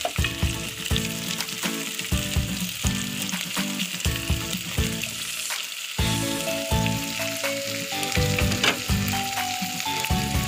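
Shrimp sizzling in a hot stainless steel pot as a wooden spatula stirs them, scraping and knocking against the pot. A melody of background music runs underneath, clearer in the second half.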